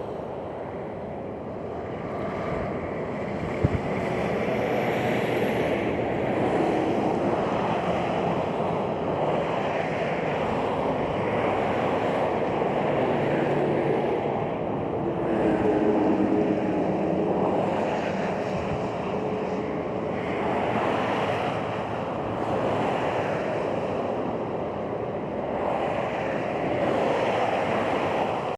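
Interstate traffic passing below, mixed with strong wind buffeting the microphone, swelling and easing in waves. A brief knock about four seconds in.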